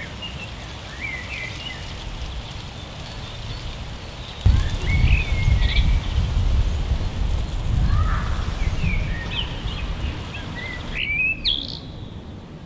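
Small birds chirping and calling over steady outdoor background noise. A low rumble sets in suddenly about four and a half seconds in and eases near the end.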